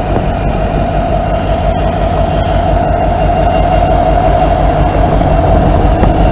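Norfolk Southern freight train rolling past close by: a loud, steady rumble of wheels on the rails, with a thin, high, steady squeal from the wheels.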